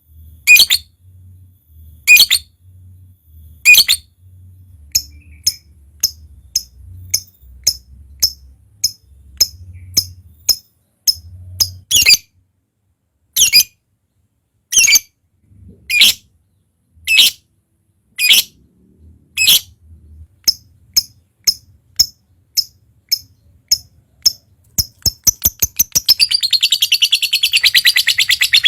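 A lovebird calling: loud, shrill single calls every second or two, with short chirps between them. Near the end it breaks into a long, fast chattering run of the kind keepers call ngekek.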